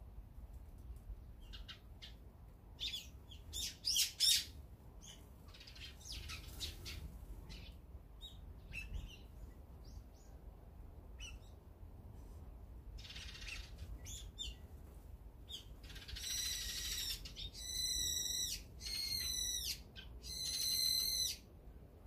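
Eurasian tree sparrows and other songbirds calling: quick high chirps through the first half, loudest about four seconds in. Near the end come four harsh, drawn-out calls of about a second each.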